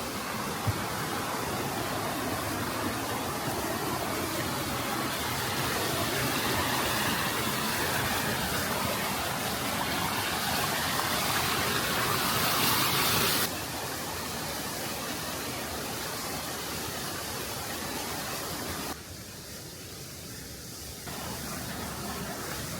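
Steady rushing of flowing water, swelling gradually, then dropping suddenly about halfway through and dipping again briefly near the end.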